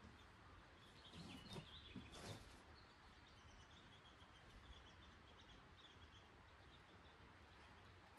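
Near silence: faint outdoor ambience with thin, high bird chirps, and a few soft scuffs in the first couple of seconds.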